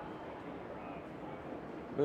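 Steady murmur of an indoor exhibition hall: crowd chatter and ambient noise with no distinct event.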